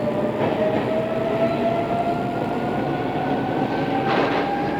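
Odakyu 2600 series electric train running, its motor and gear whine rising steadily in pitch as the train gathers speed over the rumble of the wheels. A brief hiss cuts in about four seconds in.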